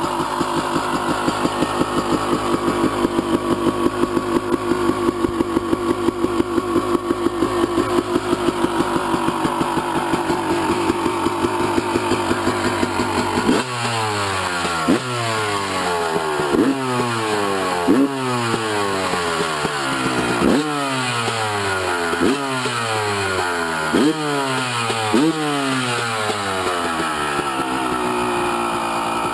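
Two-stroke motorcycle engine running at a steady pulsing speed, then, about halfway through, repeatedly climbing in pitch and dropping off sharply, about a dozen times, as the throttle is opened and shut again and again.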